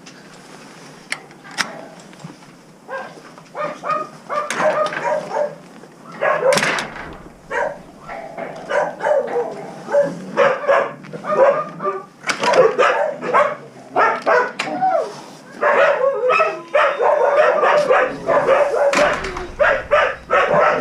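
Shelter dogs barking in short, overlapping barks. The barks are sparse at first and come almost without a break from about four seconds in.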